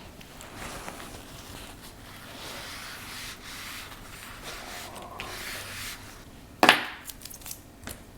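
Small tools and watch parts handled on a workbench: soft rubbing and scraping, then a sharp click as something hard is set down about two-thirds of the way in, followed by a few light taps.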